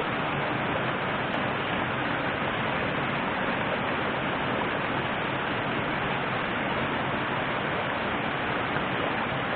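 Steady rushing of a flowing river, an even hiss of water with no change in level.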